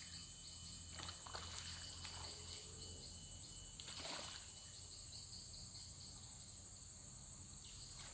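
Forest insects keeping up a steady, high-pitched, finely pulsing drone, with a few soft knocks of handling about a second in and again near the middle.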